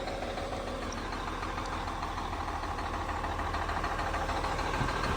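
Cummins M11 inline-six diesel in a 1998 Freightliner dump truck idling steadily.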